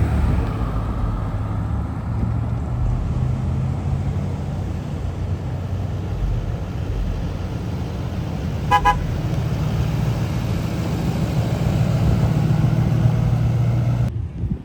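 Low, steady rumble of vehicles running, with a car horn giving two quick short beeps about nine seconds in. The rumble cuts off abruptly near the end.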